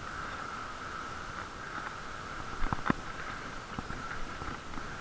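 Muffled bicycle riding noise heard through a waterproof camera case: a steady hum and low rumble, with a few light clicks and two sharp knocks about halfway through.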